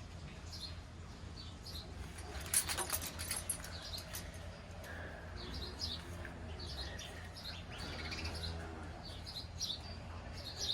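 Small birds chirping, many short high chirps repeating all through. About two and a half seconds in there is a brief clatter of sharp clicks, over a steady low hum.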